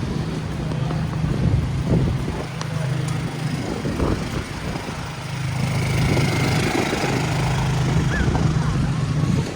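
City street sound: a vehicle engine running with a steady low hum that drops out briefly a few times, with people talking indistinctly nearby.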